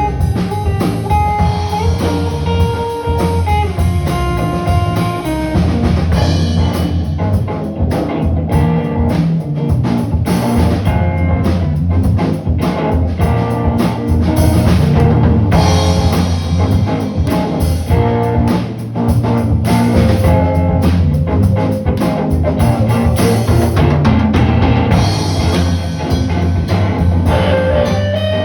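Live band playing an instrumental passage on guitar and drum kit, with no singing. A guitar line of held notes opens it, and the drumming grows busier about six seconds in.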